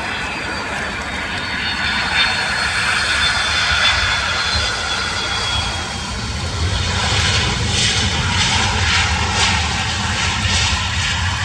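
Boeing 757 jet engines running, their whine slowly falling in pitch. A rougher rushing noise builds about halfway through.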